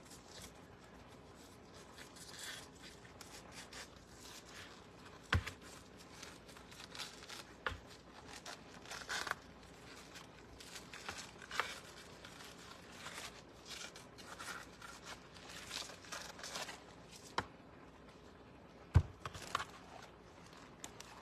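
Cabbage leaves, softened by freezing, being peeled apart and torn, with soft rustling and crinkling throughout. A few sharp knocks come through, the loudest near the end.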